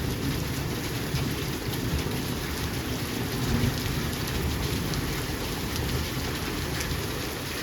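Heavy rain falling steadily, with a dense patter of individual drops hitting a surface.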